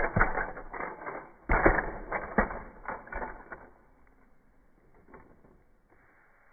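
Rapid rattling and clicking of a small mechanism in two bursts, loudest at the start and again about a second and a half in, dying away after about three and a half seconds.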